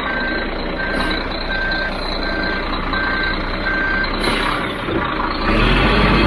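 Concrete mixer truck's reversing alarm beeping at one pitch, about once every 0.7 seconds, as the truck backs up; the beeping stops about four seconds in. Near the end the truck's diesel engine gets louder and steady.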